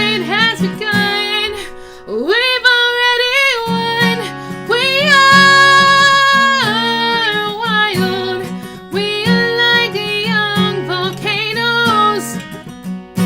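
Acoustic guitar strummed in a steady rhythm under a solo singing voice that glides up into long held notes.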